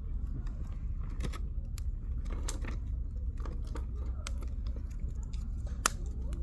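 Wood fire crackling, with scattered pops and snaps of burning firewood over a low steady rumble; one sharper pop near the end.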